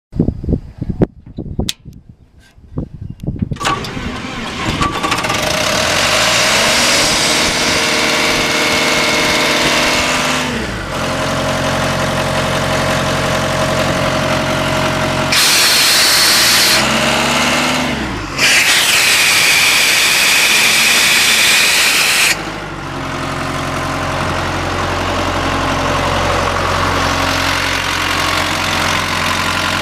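Engine of a Joy D150S1 portable air compressor cranking on the starter for a few seconds, then catching and running, with its speed rising and falling. Twice in the middle, loud hissing rushes of air come off the compressor, the second lasting about four seconds, before it settles into steady running.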